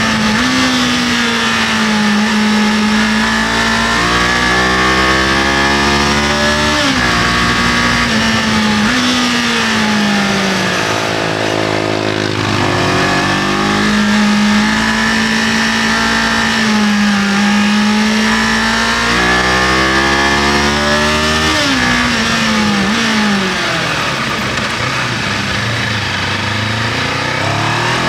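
Kawasaki KLE500's parallel-twin engine pulling through the gears on the move, its pitch climbing and dropping back at each shift, easing off about twelve seconds in, dropping again after twenty seconds and climbing once more near the end, over a steady rush of wind and road noise.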